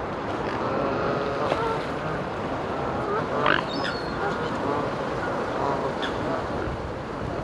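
A flock of ducks and other waterbirds calling, many short overlapping calls over a steady background hiss, with one sharper, higher call about three and a half seconds in.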